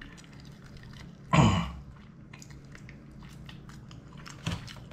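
A person chewing a bite of fried chicken, with faint, small crunches and clicks. About a second and a half in, the eater makes one short voiced sound with falling pitch, like an "mm".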